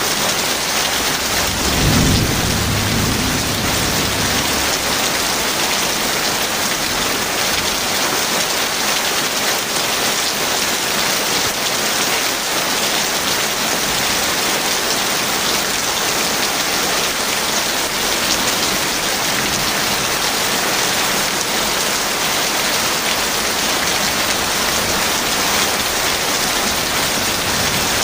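Heavy rain falling steadily, with a short low rumble of thunder about two seconds in.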